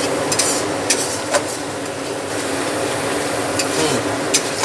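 Onion and ginger-garlic paste sizzling in hot oil in a steel kadai, with a metal spatula scraping and clinking against the pan several times as it is stirred.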